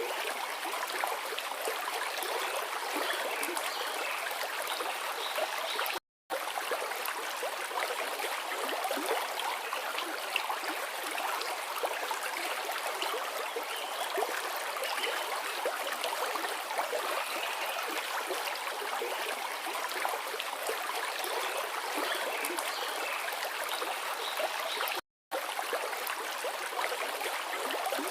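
Forest river flowing: a steady rush of running water. It cuts out completely for a split second twice, about six seconds in and again near the end.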